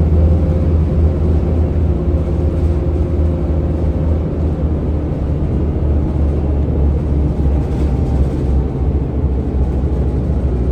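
Scania N230UD double-decker bus with a ZF automatic gearbox running: a steady deep diesel rumble with a faint whine above it that drifts slowly lower in pitch.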